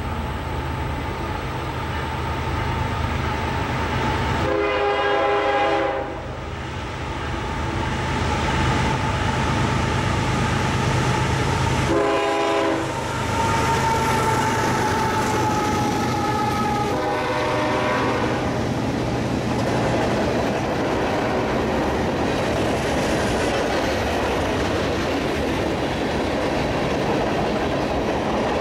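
CSX diesel freight locomotives approach and pass with engines running, sounding their multi-note horn in three blasts. The train's freight cars then roll by with wheels clacking over the rail joints.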